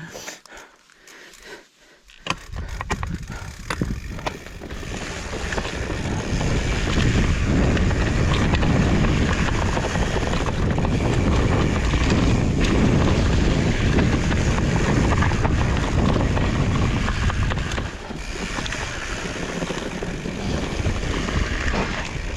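Wind rushing over the microphone, mixed with tyre and trail rumble from a riding fat bike. It starts with a few sharp clicks, then rises over the first few seconds and holds loud and steady.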